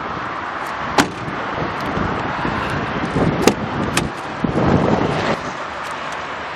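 A few sharp clicks and knocks, with a rough rustling swell about five seconds in, over steady outdoor traffic and wind noise.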